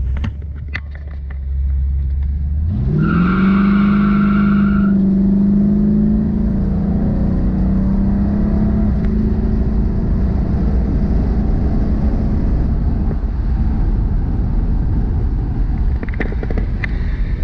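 1972 Buick GS's freshly installed 455 big-block V8 under full throttle from a roll. The engine note rises sharply about three seconds in, with a brief high squeal, then holds high through a hard pull meant to seat the new piston rings. The engine tops out around 4,000 rpm.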